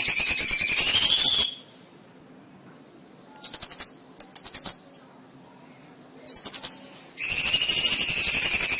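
Cucak cungkok song: a loud, high, rapid jingling chatter of tightly packed notes that stops about a second and a half in, gives way to three short high calls, and starts again near the end.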